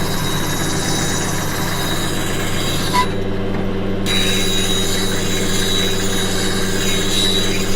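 A grinder motor running steadily with a low hum while a woodturning gouge is ground against the wheel, giving a hiss. The grinding hiss stops for about a second about three seconds in as the tool comes off the wheel, then resumes.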